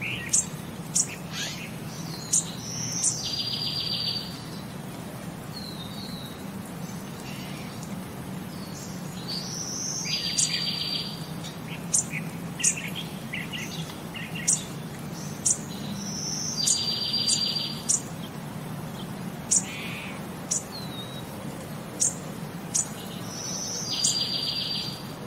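Birdsong of sharp high chirps and a short buzzy trill, the same phrase coming round about every seven seconds as a loop, over a steady low hum.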